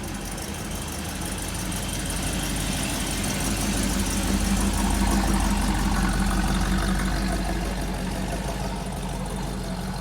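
A car engine running, growing louder to a peak about halfway through and then easing off.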